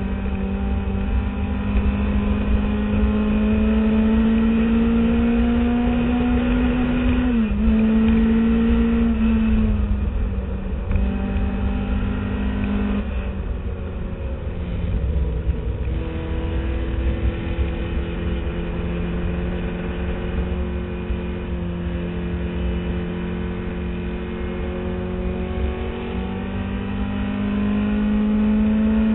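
Classic Mini Cooper's A-series four-cylinder engine heard from inside the car under race power. The revs climb, drop sharply about seven seconds in as at a gear change, fall away again around thirteen seconds, then hold a long steady pull and rise again near the end, over a steady low rumble.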